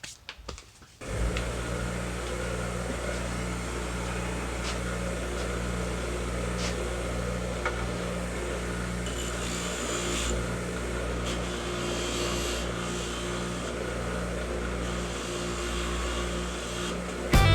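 Electric motor of a wire wheel starting about a second in and running steadily with a low, even hum, with a few faint ticks over it. It stops suddenly near the end.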